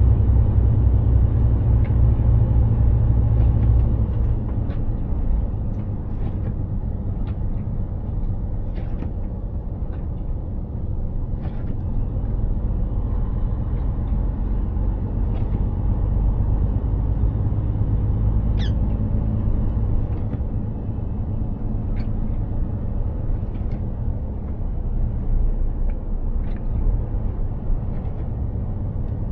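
Mercedes-Benz Actros 2763 truck driving along, its engine a steady low drone under road and tyre noise, easing off about four seconds in. Scattered faint ticks sound over it.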